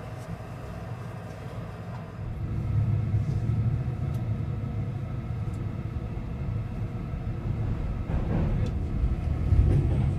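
Keihan limited express train running on the rails, a steady low rumble heard from inside the passenger car. It grows louder about two seconds in.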